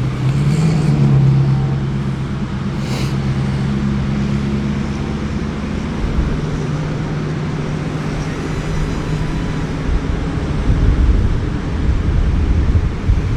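A steady low engine hum that fades out about six seconds in, with wind buffeting the microphone in gusts that grow stronger toward the end.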